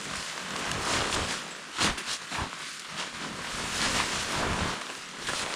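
Rustling noise that swells and fades, with a couple of sharp knocks about two seconds in.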